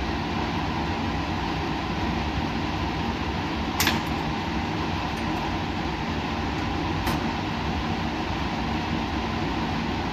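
Steady mechanical hum and airflow noise of laboratory equipment running. Two sharp clicks break through, the louder about four seconds in and a fainter one about seven seconds in.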